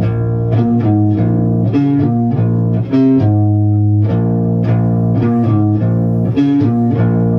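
Electric bass guitar playing a repeating riff: plucked notes moving above a low sustained note, the phrase coming round about every three seconds.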